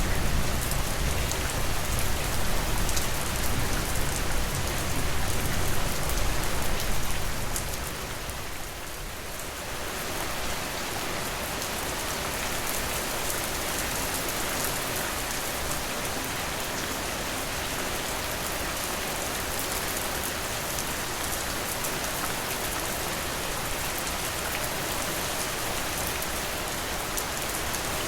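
Steady rain falling on surfaces, a dense even patter. For the first several seconds a low rumble of distant thunder runs under it, then dies away, leaving only the rain.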